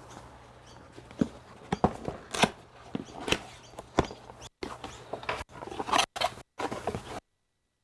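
Irregular clicks, taps and knocks with some rustling, as parts and hardware are handled by hand. The sound cuts out abruptly several times in the second half and goes silent near the end, apart from one last click.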